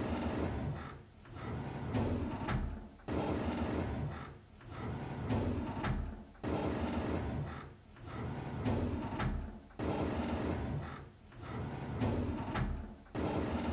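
A drawer sliding open on its runners, repeated about four times, one every three and a half seconds or so. Each pass begins suddenly and runs on as a rumbling slide that fades away.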